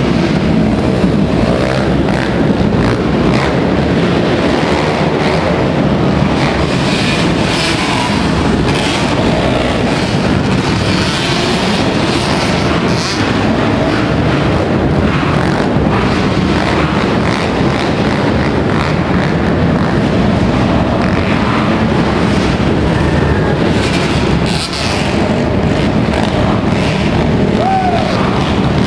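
Motocross motorcycle engines running, a loud continuous roar without a break.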